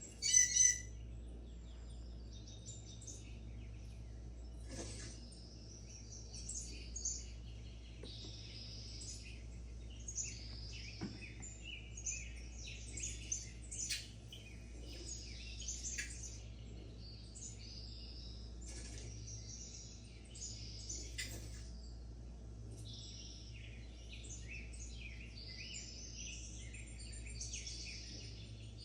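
Several small birds chirping and twittering, short overlapping calls throughout, over a steady low hum. A brief sharper burst of chirps about half a second in is the loudest moment.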